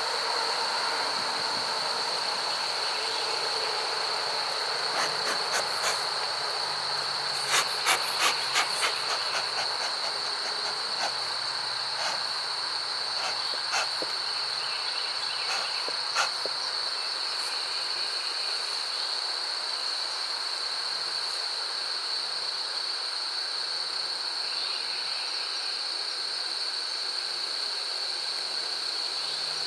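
Insects trilling steadily at a high pitch, with a quick run of sharp clicks and knocks about eight seconds in and a few single clicks later, as wooden beehive frames and boxes are handled.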